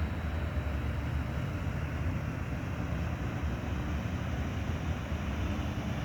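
Steady rushing water from a river waterfall, an even, unbroken rush with a deep low rumble.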